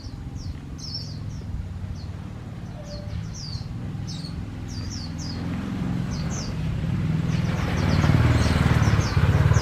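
White-eye (chim khuyên) chirping over and over in short, high, quick calls: the lure bird calling to draw wild white-eyes to the trap. Under it, a low engine rumble grows louder in the last few seconds.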